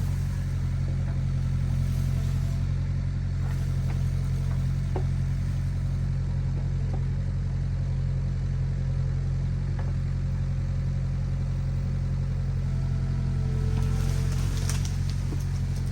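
Excavator's diesel engine running at a steady speed, with a few light clicks over it.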